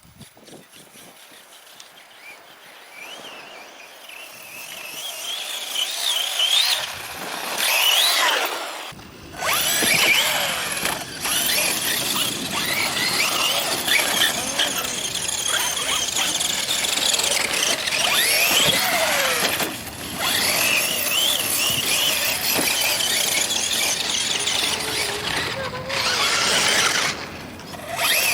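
Brushless electric motor and drivetrain of an HPI Savage Flux XL 1/8-scale RC monster truck running on 6S, a high whine whose pitch rises and falls again and again as the throttle is worked. It is faint for the first few seconds, louder after that, and breaks off sharply a few times.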